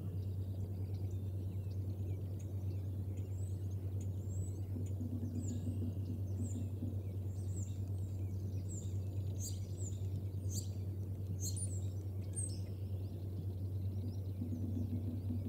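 Small birds chirping, many short high calls, with a run of sharper, louder ones just past the middle, over a steady low hum from the nest camera's microphone.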